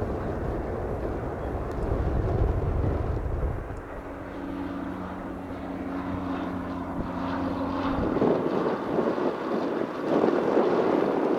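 Aircraft engine noise: a low rumble, then a steady engine drone with held tones for about four seconds, giving way to a louder rushing noise about eight seconds in.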